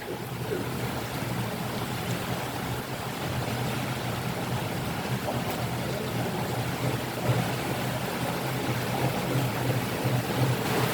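Steady rain falling, an even hiss, with a continuous low rumble underneath.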